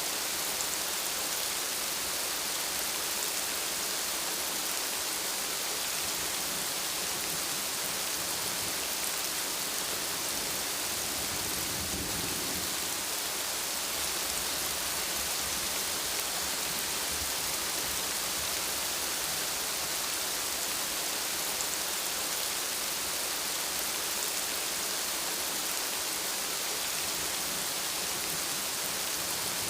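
Steady rain falling, a dense even hiss of drops. About twelve seconds in, a low rumble of thunder swells and fades.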